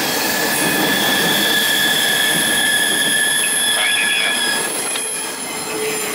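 Freight cars of a CSX manifest train rolling past, steel wheels squealing on the rail in a steady high-pitched tone over the continuous rumble and clatter of the wheels. The squeal stops shortly before the end while the cars keep rolling.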